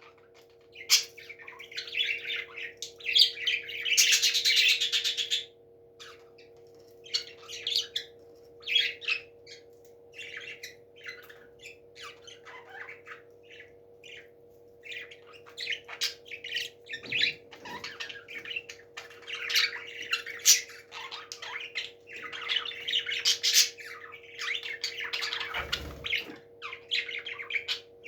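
Parrots chattering with many short squawks and chirps, with a louder, longer squawk about four seconds in. A steady low hum runs underneath.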